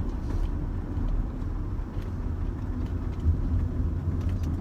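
Steady low engine and road rumble inside the cabin of a 2005 Rover 25 GSi on the move.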